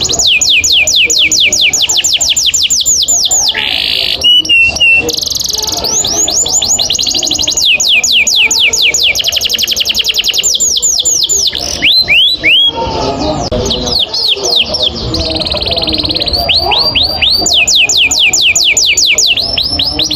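Domestic canary singing long rolls: fast, even trills of many quick falling notes, broken twice by short passages of other notes, including a brief held whistle.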